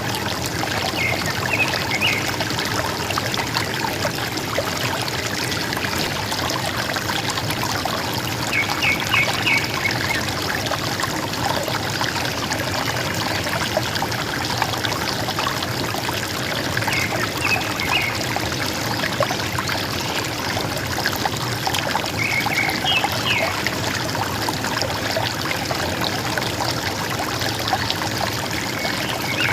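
River water running and gurgling steadily, with a bird's short call of a few quick high notes repeating about every seven seconds.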